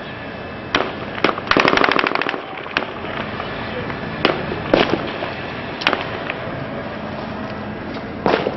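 Small-arms gunfire: scattered single shots, with a burst of rapid automatic fire lasting under a second about a second and a half in.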